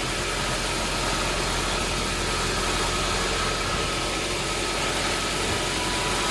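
Machinery engine running steadily with a constant noise, no change in speed or load.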